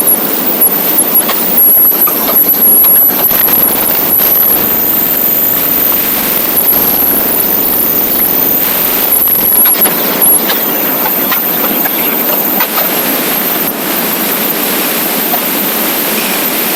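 Motorcycle riding at speed: a steady, loud rush of wind and road noise with the engine running underneath.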